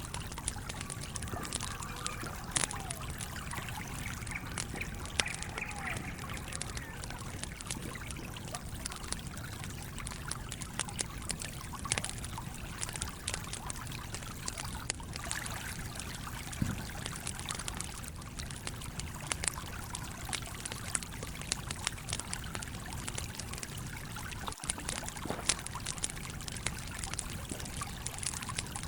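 A stream flowing steadily, with a campfire crackling over it in frequent sharp pops.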